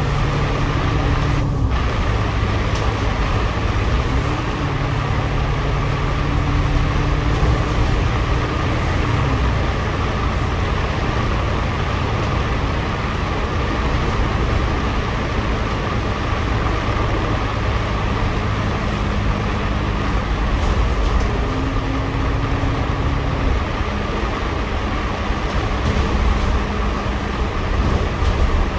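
A double-decker bus running, heard from inside its upper deck: a steady engine and drivetrain hum over road noise. The engine note rises and falls several times as the bus speeds up and slows down.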